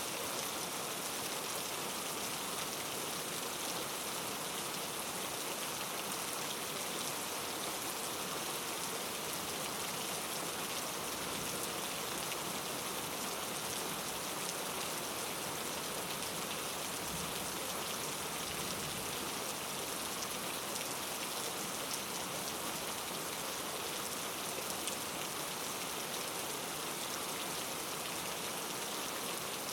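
Steady rainfall, an even hiss of many drops falling on a surface, unchanging throughout.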